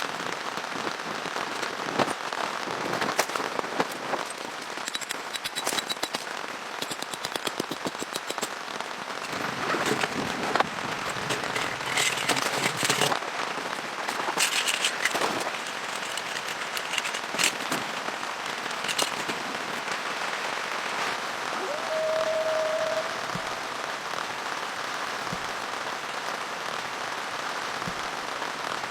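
Rain falling, with a dense crackling patter of individual drops striking a surface, busiest in the first half. A short steady tone sounds for about a second, about three-quarters of the way through.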